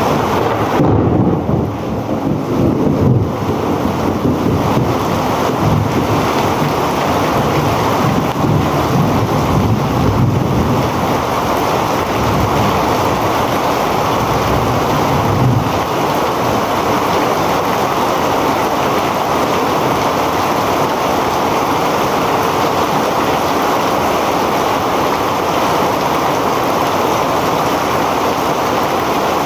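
Heavy rain falling steadily and densely, with low rumbling in the first half that eases off after about sixteen seconds.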